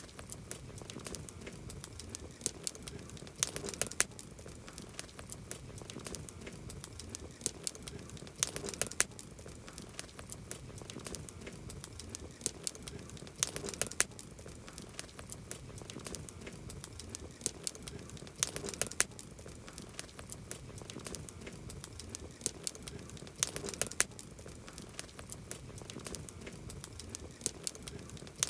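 Wood campfire crackling: a low hiss under many sharp pops and snaps, with a louder cluster of pops about every five seconds.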